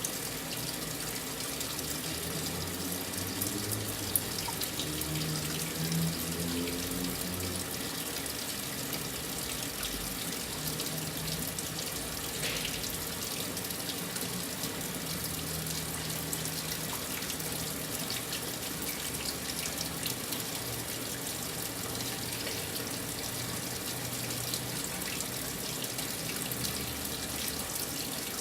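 Brastemp 9 kg washing machine with water running steadily into its drum, a continuous rushing with a faint low hum beneath.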